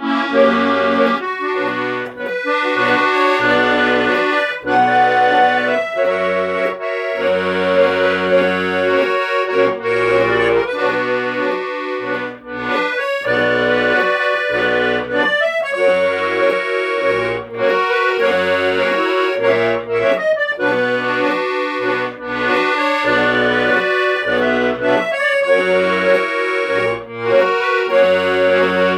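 Accordion music: a lively tune of sustained chords over a rhythmic run of bass notes.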